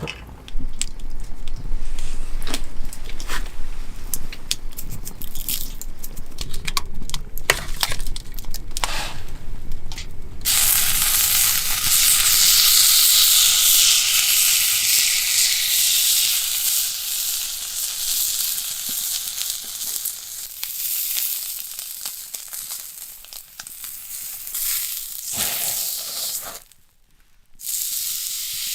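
Irregular crunching and cracking clicks, then, from about ten seconds in, a loud, steady sizzle of meat frying, which drops out briefly near the end.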